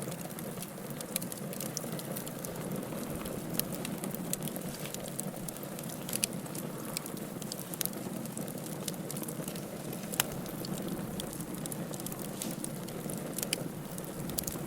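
Wood fire burning in a fireplace: a steady low rush of flames with frequent, irregular sharp pops and crackles, the loudest pop about ten seconds in.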